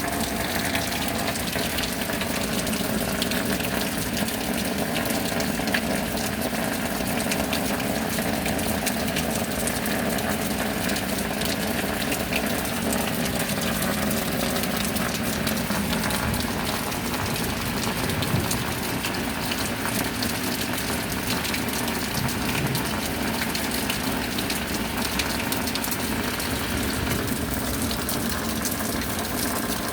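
Steady rain with a constant, even rush of falling water.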